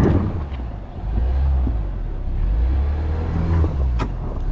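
Ford Bronco Sport's turbocharged four-cylinder engine pulling on a dirt trail, settling into a steady low drone about a second in, after coarse tyre-on-dirt noise at the start. A single sharp click about four seconds in.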